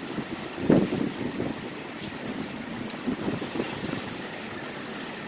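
Rain falling in a thunderstorm, with wind gusting against the microphone in uneven swells, the strongest about a second in.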